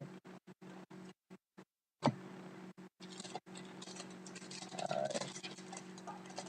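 Hockey trading cards and a card pack being handled: a sharp click about two seconds in, then continuous rustling and scratching of cards and wrapper as the next pack is opened. A steady electrical hum sits underneath.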